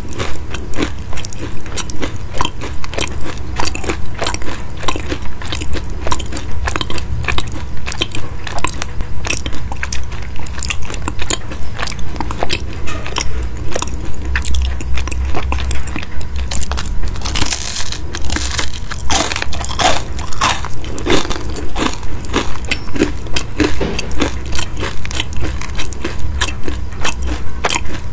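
Close-miked mouth chewing of a crisp baked meat-topped pastry, crackling crunches in a steady rhythm of about three chews every two seconds. A louder run of crunches comes a little past the middle.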